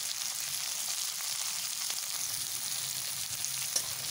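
Chopped onions, garlic and green chillies sizzling steadily in hot oil in a metal kadhai, with a couple of sharp ticks from the steel spatula as they are stirred.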